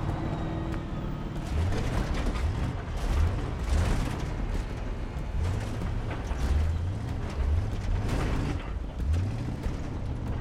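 Pickup truck driving off-road across a rough field: the engine revs up again and again, while the body and suspension rattle, knock and creak over the bumps.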